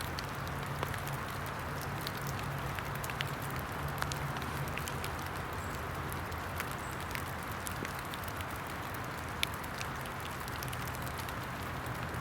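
A small fire of wet sticks and lint with rain falling around it: a steady hiss with scattered light ticks and crackles.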